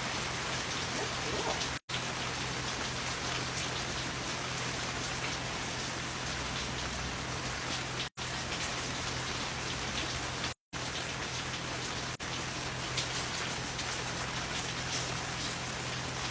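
Steady rain falling, an even hiss of drops on surfaces, broken by three brief cuts to silence.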